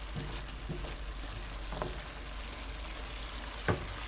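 Chopped long squash sizzling in a pot as it cooks down in its own water, a steady hiss. There are a few light knocks, the loudest near the end.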